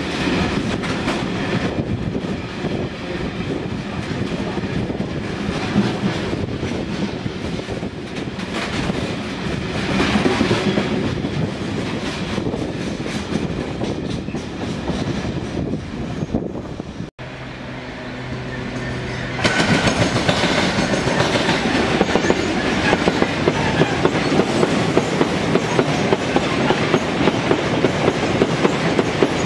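A freight train of open box wagons rolls past with a steady rumble and rattle. After a short break, a train of tank wagons passes at speed, louder, with a fast, regular clickety-clack of wheels over the rail joints.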